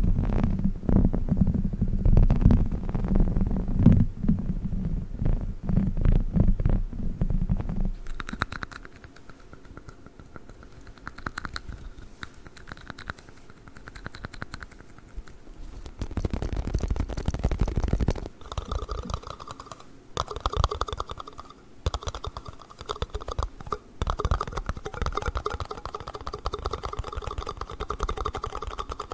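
Close-miked ASMR tapping and handling sounds: fast clicking and scratching on a dog's chicken-shaped toy, then, about eighteen seconds in, rapid clicky tapping on plastic yoghurt cups.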